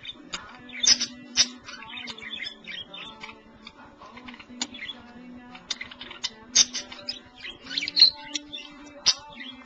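Several pet budgerigars (parakeets) warbling and chattering, a busy run of quick chirps and short sharp calls with a few louder squawks.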